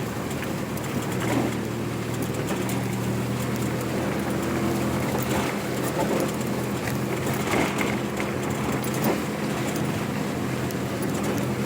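A vehicle's engine running steadily under way, with road noise and occasional short knocks.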